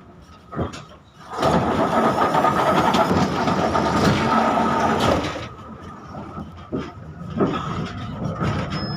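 71-605 (KTM-5M3) tram in motion: its running noise swells sharply about a second in and holds loud for about four seconds, with a steady whine running through it. It then falls back to a quieter rumble with a few clicks.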